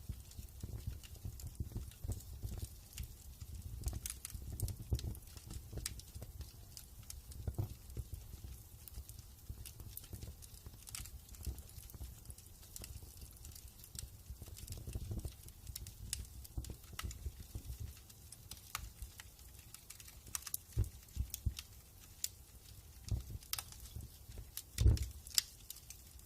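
Wood fire in a fireplace crackling, with irregular sharp pops and snaps over a low steady rumble of the flames; one louder pop near the end.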